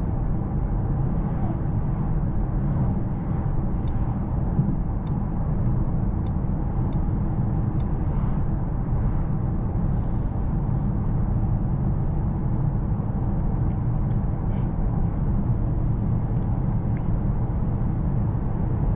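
Steady low rumble of the 2024 Mercedes-AMG S63 E Performance sedan driving at an even pace, heard from inside the cabin, with no revving.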